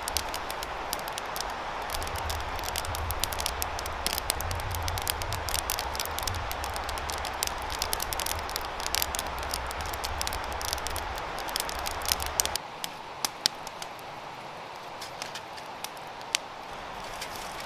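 Crackling and popping over a steady hiss, the sound of campfire cooking. About two-thirds of the way through, a low rumble stops suddenly and the sound gets quieter.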